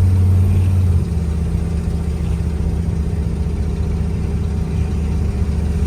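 1972 Ford F250 engine running through dual exhaust with cherry bomb mufflers while the truck cruises; the engine note drops a little about a second in, then holds steady.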